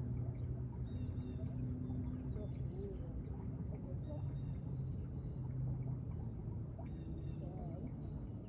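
A bird sings a quick series of high chirps three times, a few seconds apart, over a steady low rumble.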